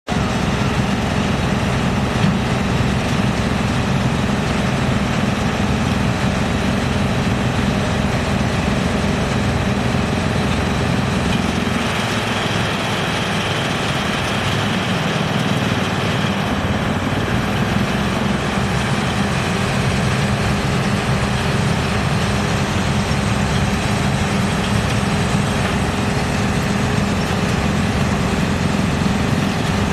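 Wood crusher (sawdust-making machine) running with a continuous engine-like drone. Its tone shifts for a few seconds about halfway through.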